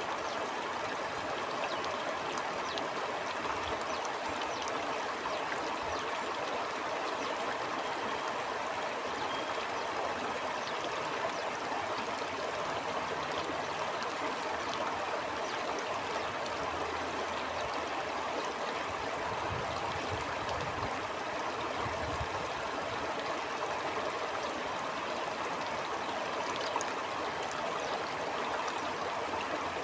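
Stream water flowing steadily, an even rushing and gurgling with fine splashes and no break.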